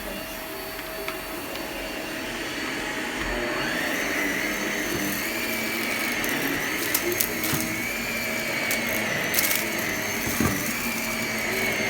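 Vacuum cleaner running, its motor whine rising about four seconds in, with scattered sharp clicks and rattles later on as crunchy debris is sucked up.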